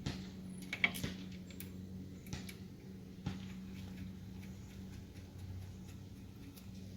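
Scattered light clicks and taps of metal parts and tools being handled during reassembly of a car's rear wheel hub, the sharpest about a second in, over a steady low hum.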